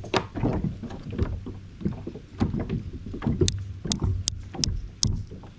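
Water splashing and sloshing in irregular bursts, with a run of sharp taps in the second half.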